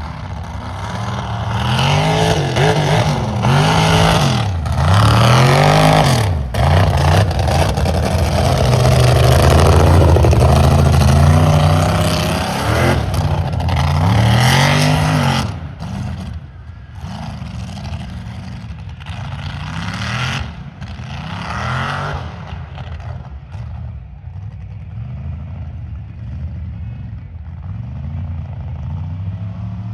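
Mega truck engine revved hard again and again, its pitch sweeping up and down in quick repeated surges. About halfway through it drops to quieter running, with a couple of shorter revs soon after.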